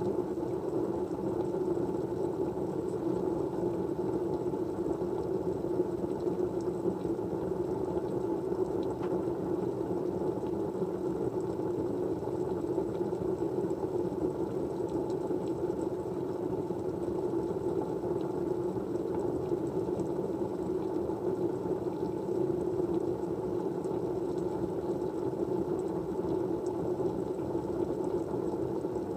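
Steady, even white noise, deepest and fullest in the low-middle range, with a few faint ticks here and there.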